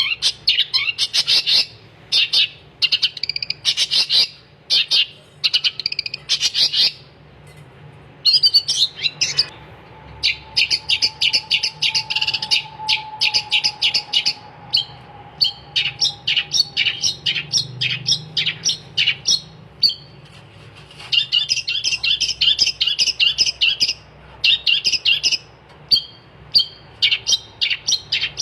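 Long-tailed shrike (cendet) singing energetically: fast runs of sharp, high chirps in phrases of a second or two, broken by short pauses.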